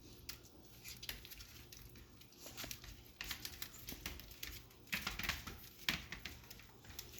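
Chihuahua puppies moving about and playing: faint, scattered clicks and soft patters at irregular intervals.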